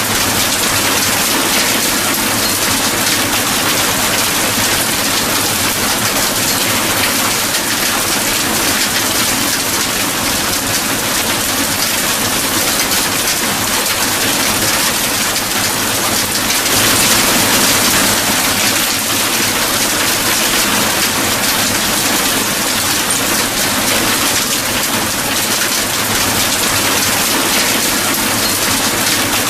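Steady heavy rain falling, a dense even hiss of drops, swelling slightly about two-thirds of the way through.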